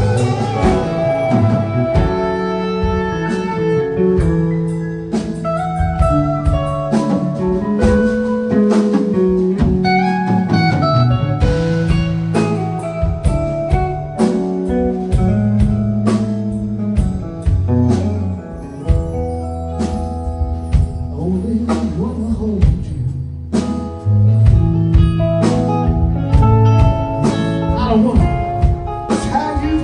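Rock band playing an instrumental passage without vocals: electric guitar lines over bass and drums.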